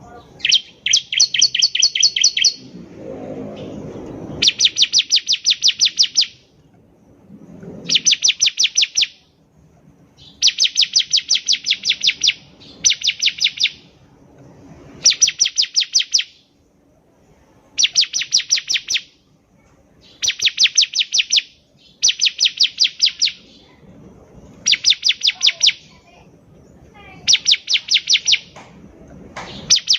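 Bar-winged prinia (ciblek) singing: about a dozen loud phrases of rapid, evenly spaced high chirps, each one to two seconds long, repeated every couple of seconds. A brief low rumble sounds about three seconds in.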